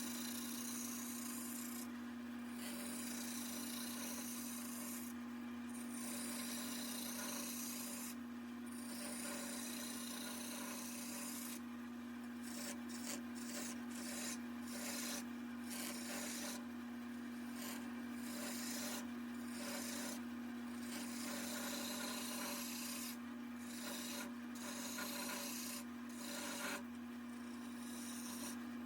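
Wood lathe motor humming steadily while a walnut leg spins on it and is worked against the wood, giving a hissing scrape that comes and goes in strokes with short breaks every few seconds.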